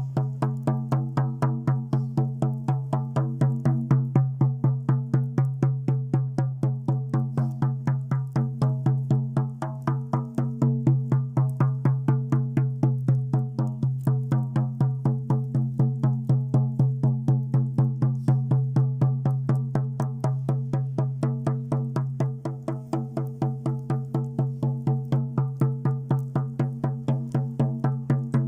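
Ritual drum beaten in a steady, even rhythm of about four beats a second, with a low ringing tone held underneath the beats.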